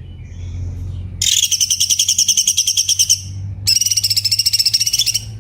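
Cucak cungkok song from a masteran (training recording): a few soft notes, then two loud, rapid trilled phrases of about two seconds each. The second phrase cuts off abruptly.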